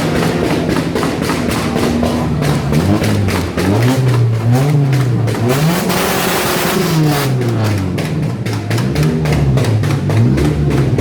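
Car engine revved again and again, its pitch climbing and dropping every second or so, with a rapid crackle of sharp pops throughout, typical of a 2-step launch-control backfire.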